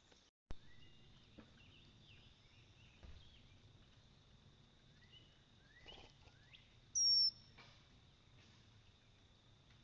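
Wild birds calling around a backyard feeder: scattered short chirps and sweeps, and one louder, high, falling call about seven seconds in. A steady faint high tone runs underneath, and there is a short click with a brief dropout near the start.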